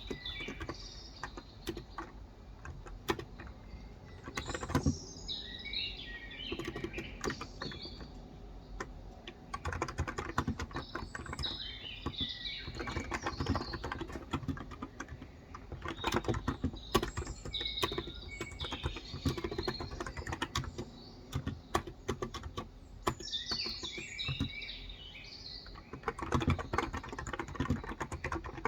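Steady typing on a Cox Endeavor electro-capacitive keyboard with 35 g switches. Songbirds chirp over it in several short spells of song.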